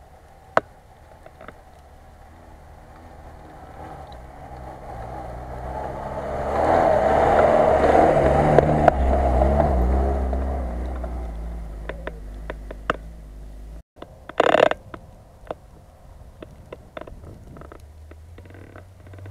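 Lada Niva (VAZ-2121) four-cylinder petrol engine pulling up a snowy slope and passing close by. It grows louder to a peak about eight seconds in, then fades. About fourteen and a half seconds in comes a short, loud rush of noise, followed by scattered clicks.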